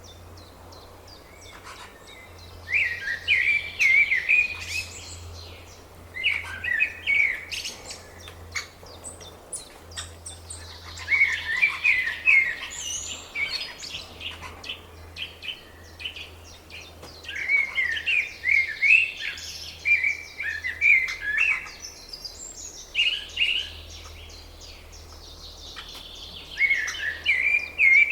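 Birds chirping in bursts of quick, high notes, about six bursts a few seconds apart with quieter stretches between.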